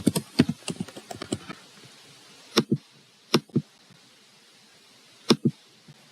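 Typing on a computer keyboard: a quick run of key clicks in the first second and a half, then three separate pairs of sharp clicks spread over the rest.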